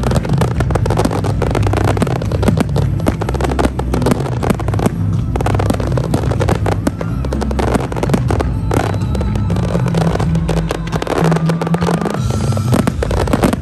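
Fireworks display going off continuously: dense, rapid bangs and crackling from salvos of fan-shaped comets and aerial bursts. Music plays underneath.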